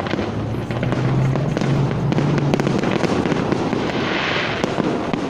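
Fireworks display: many sharp bangs and crackles of shells and fountains going off in quick succession over a continuous rumble.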